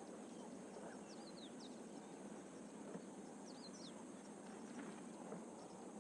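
Faint dry-season bush ambience: a bird twice gives a short phrase of quick descending high chirps, over a steady high insect hiss.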